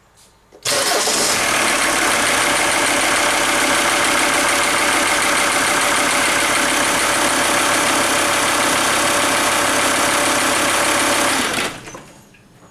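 Volvo S70's D5252T 2.5-litre five-cylinder turbodiesel starting up, idling steadily for about ten seconds and then being switched off. It is run just long enough for the oil pressure light to go out after an oil and filter change, while the fresh oil fills the new filter and begins to circulate.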